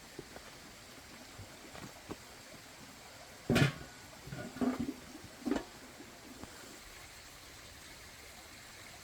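Water splashing in a few short bursts, the loudest about three and a half seconds in, with two smaller splashes soon after.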